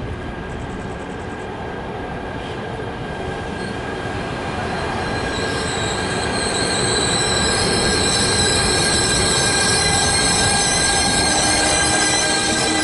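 Trenitalia E405 electric locomotive hauling a freight train of car-carrier wagons, approaching and passing close by. The rumble grows steadily louder, and from about five seconds in several high, steady tones ring over it.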